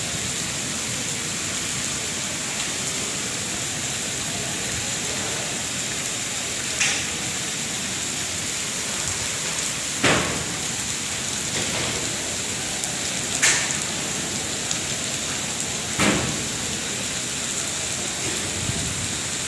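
Steady rain falling and splashing on surfaces. Four brief louder hits stand out, roughly three seconds apart.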